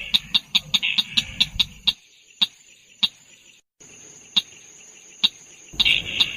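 Repeated calls of the tut-tutan merah bird: a fast series of sharp clicking notes with a pulsing buzzy chatter over them. The chatter stops about two seconds in, leaving sparser clicks, and comes back near the end.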